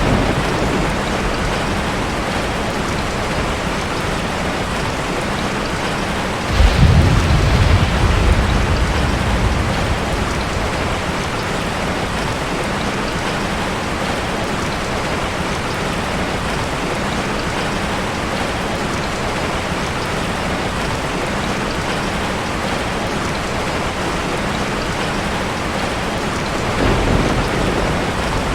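Heavy rain falling steadily, with a clap of thunder about six and a half seconds in that rumbles off over a few seconds, and a fainter low rumble of thunder near the end.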